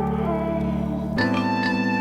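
Background music of held, organ-like keyboard chords. The chord changes about a second in, and a higher melody line comes in over it.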